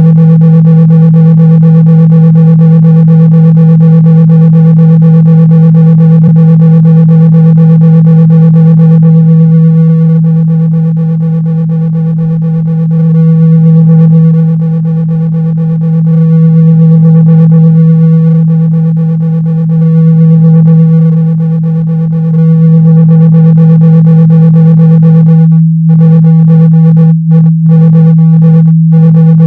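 Loud, steady low 162 Hz speaker-cleaning tone, meant to vibrate a speaker's cone so that water and dust are shaken out. Through the middle its loudness swells and dips every few seconds, and near the end it cuts out briefly several times.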